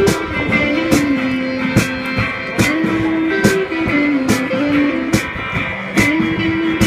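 Live rock band playing an instrumental intro: electric guitar and a stepping melody line over drums striking a slow, steady beat, a little under once a second.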